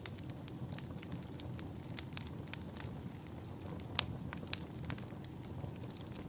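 Wood fire crackling, with irregular sharp pops over a low steady rumble; the loudest pop comes about four seconds in.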